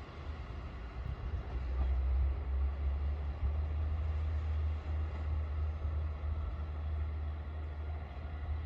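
KiHa 40 diesel railcar's engine running with a steady low rumble, growing louder about a second and a half in.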